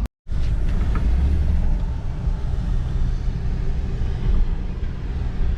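Vehicle engine running with a steady low rumble, after a split-second dropout at the start.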